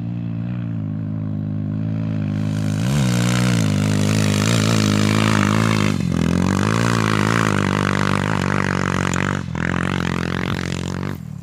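Trail motorcycle engine revving hard on a steep hill climb, its pitch rising and falling as the rider works the throttle. It gets louder about two and a half seconds in and cuts off sharply near the end.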